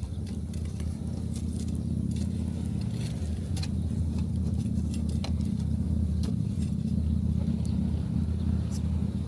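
Wood fire crackling, with scattered sharp pops and snaps, over a steady low rumble of surf and wind.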